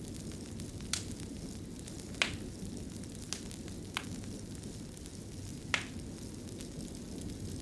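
Wood fire in a fireplace crackling over a steady low rumble, with a handful of sharp, isolated pops.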